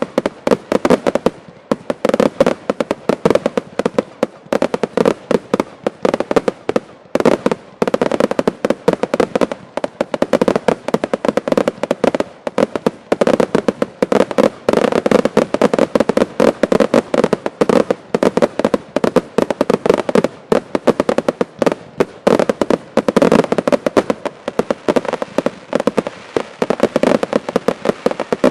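Fireworks finale: a dense, continuous barrage of sharp bangs and reports, many each second, overlapping.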